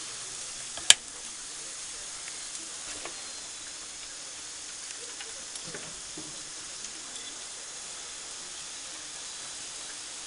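Beef round sizzling on a grill: a steady, high hiss, with one sharp click about a second in.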